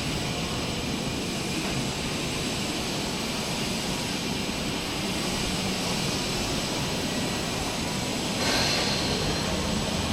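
Steady running noise of a CNC tandem press brake, with a louder, hissier stretch starting about eight seconds in.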